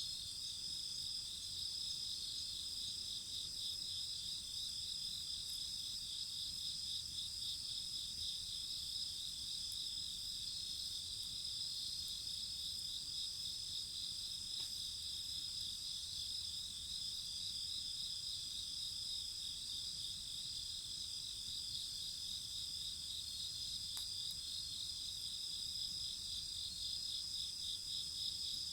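A steady chorus of crickets and other insects singing together in several overlapping high-pitched trills, one of them pulsing rapidly.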